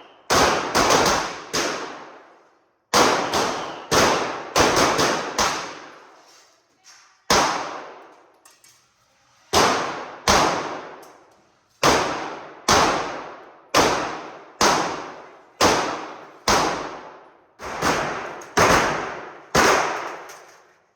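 Gunshots at a shooting range: a string of about twenty sharp reports, often one every half second to second with a couple of short pauses, each trailing off in a long echo.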